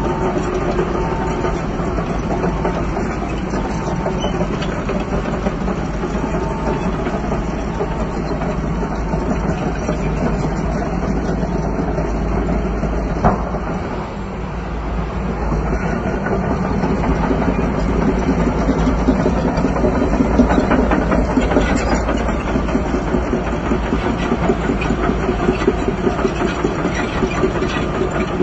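Crawler bulldozer's diesel engine running steadily, with a backup alarm beeping faintly over it for the first several seconds. There is a single sharp knock about 13 seconds in, and from about 16 seconds on the engine gets louder, working under load.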